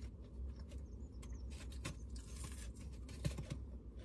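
Soft rustling and scattered small clicks over a steady low hum, busiest around the middle.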